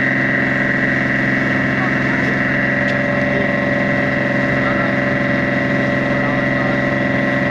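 A boat's engine running at a steady, unchanging speed with a constant drone throughout, and faint voices in the background.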